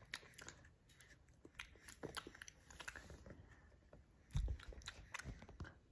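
A person biting into and chewing a chocolate-coated caramel candy: faint small mouth clicks and crackles, then a louder bite with a low thump about four and a half seconds in, followed by more chewing.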